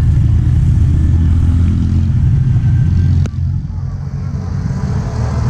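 Low, steady rumble of a road vehicle running, with a single sharp click about three seconds in, after which it is quieter.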